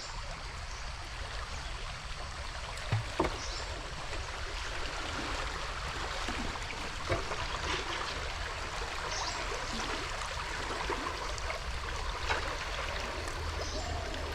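Steady rush and lapping of river water around a canoe, with a few light knocks scattered through.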